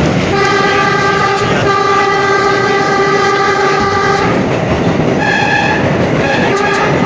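New York City subway train horn sounding a long blast, then a short one, then a third starting near the end, over the steady rumble of the train running on the rails.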